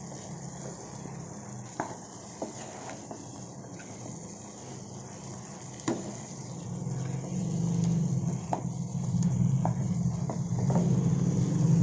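Chicken pieces sizzling in masala gravy in a non-stick frying pan, with a few scrapes and taps of a slotted spatula as they are stirred. A low hum grows louder in the background from about halfway through.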